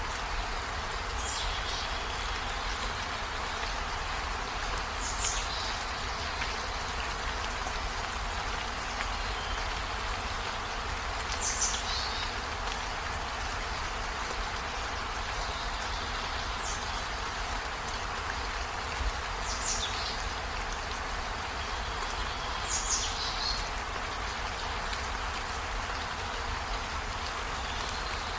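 Water of a waterfall rushing in a steady hiss, with a short high chirp every few seconds, about six in all.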